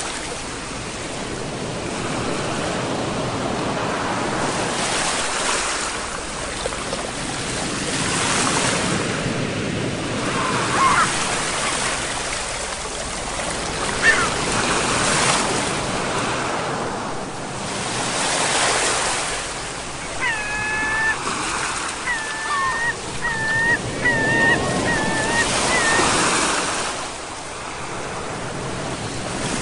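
Ocean waves breaking on a shore, the surf swelling and falling back every few seconds. A few short bird calls sound over it, with a quick series of calls about two-thirds of the way through.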